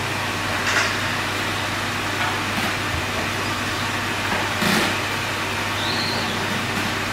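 Steady blower-like machine noise with a constant low hum, and two brief rustles, about a second in and near the middle.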